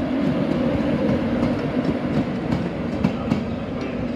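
LNER Class 91 electric locomotive and its coaches running past at close range: a steady electric hum, with the wheels clicking over rail joints a few times a second.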